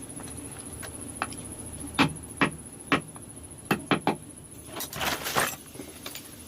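Six sharp knocks, likely a mallet striking a wood-carving chisel: three about half a second apart, then three in quick succession, followed by a brief scraping rustle.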